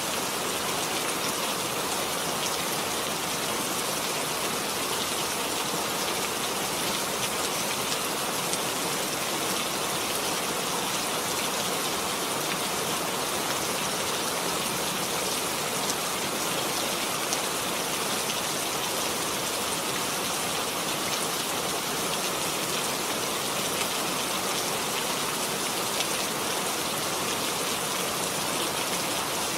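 Steady rainfall pattering on surfaces, a continuous even hiss with a few louder individual drops.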